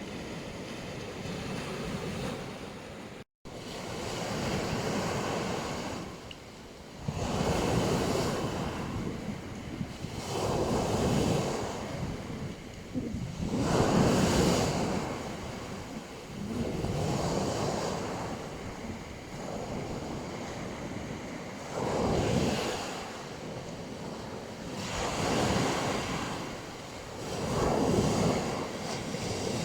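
Black Sea waves breaking and washing up on a beach, each surge swelling and ebbing every three to four seconds. There is a very brief dropout about three seconds in.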